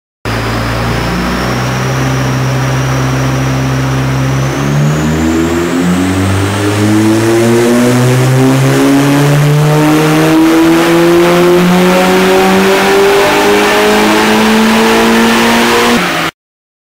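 Mitsubishi Lancer Evolution IX's turbocharged four-cylinder engine on a chassis dynamometer, held steady for about four seconds, then making a wide-open-throttle power run in fourth gear. Its pitch climbs steadily through the revs, with a faint high whine rising with it, until the sound cuts off abruptly near the end.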